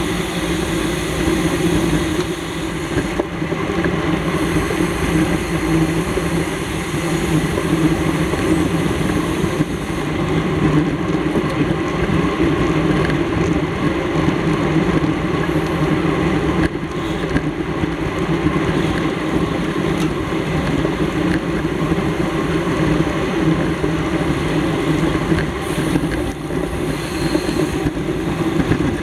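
Steady rushing wind noise on the microphone of a camera riding along in a bicycle race, with no clear breaks.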